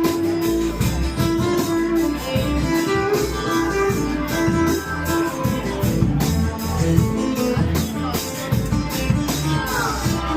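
Live band playing an instrumental passage: guitar over a steady drum beat.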